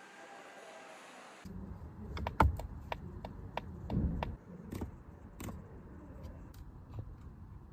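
A steady hiss for about the first second and a half, then irregular sharp clicks and knocks over a low rumble. The loudest click comes about two and a half seconds in, and a duller thump about four seconds in.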